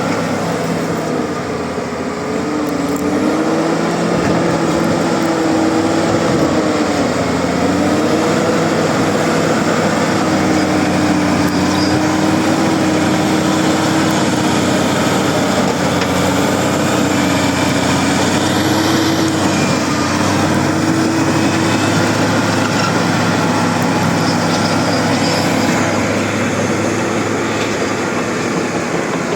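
Bulldozer diesel engine running steadily, its pitch dipping and rising again several times as the load changes.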